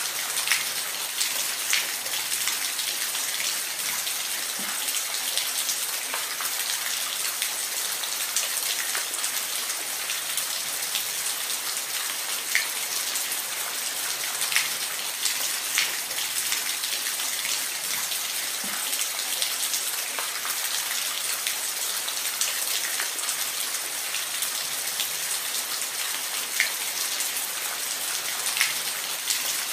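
Steady rain falling, an even hiss with individual heavier drops landing as sharp taps every second or two.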